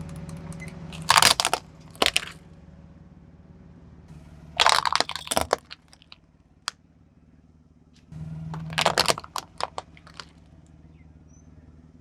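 A car tyre rolling over and crushing crunchy objects: three bouts of loud crunching and cracking, about a second in, around five seconds in and around nine seconds in, with the car's engine running low underneath at the start and again near the last bout.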